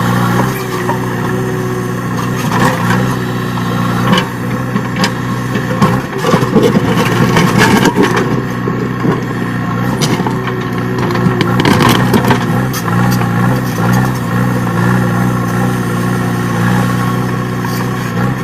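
JCB backhoe loader's diesel engine running steadily under load, with bursts of knocking and clatter from the digging, busiest in the middle stretch.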